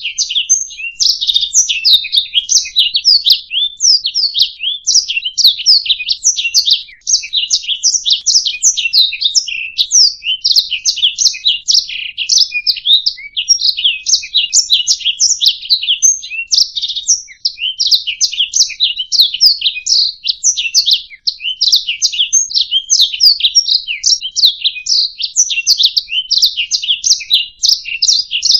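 Domestic canary singing a long, unbroken song of rapid chirps, trills and whistled glides.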